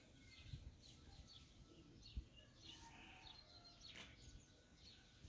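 Faint outdoor background with scattered short, high bird chirps and a single soft click about two seconds in.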